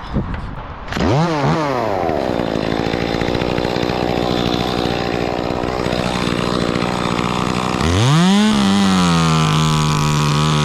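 Chainsaw revved sharply about a second in, then running steadily at high revs. It revs up again near the end and holds at full throttle.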